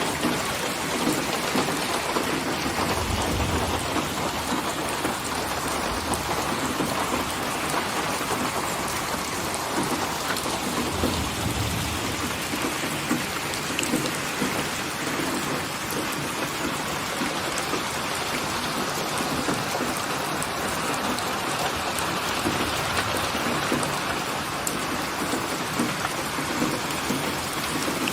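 Steady rain falling and pattering on surfaces, an even hiss, with two brief low rumbles about three and eleven seconds in.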